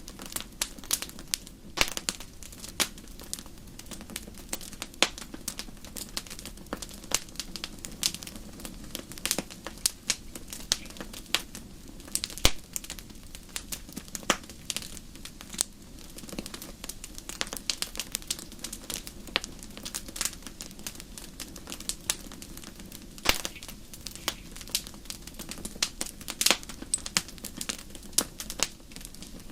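Campfire crackling: irregular sharp pops and snaps of burning wood over a low, steady rush of flame.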